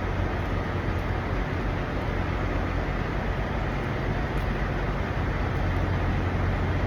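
Steady low drone of idling semi-truck diesel engines, with a constant rushing noise over it.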